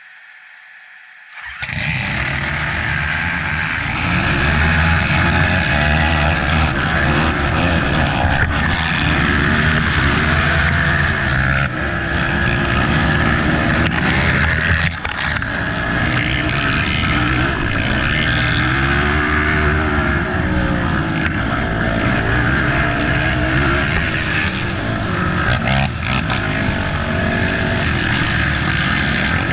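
Racing ATV engine running hard, its revs climbing and dropping again and again through the gears, cutting in suddenly about a second and a half in.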